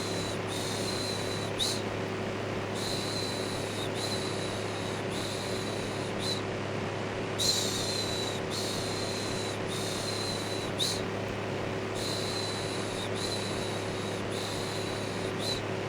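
Steady electric fan whir with a low hum, overlaid with a looped shushing voice: 'shhh' after 'shhh', about three long ones and a short one in each group, with a brief pause between groups every few seconds.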